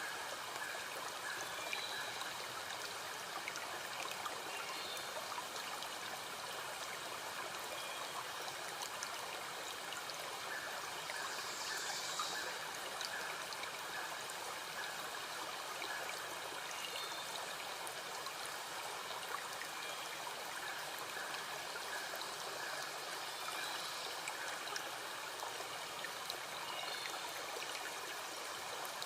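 Mountain stream flowing steadily, an even rush of water throughout, with faint short high chirps here and there.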